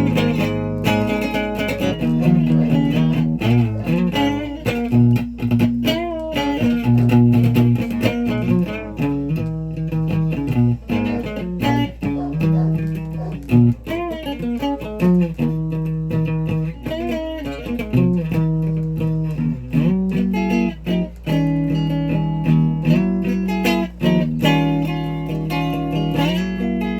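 A guitar played without a break: runs of single notes and chords, with bent and wavering notes. A steady low hum sits underneath.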